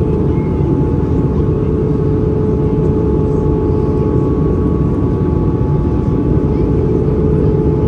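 Steady in-flight cabin noise of an Airbus A320-214 from a window seat near the wing: a loud, even rumble of airflow and CFM56 engines with a constant hum on top.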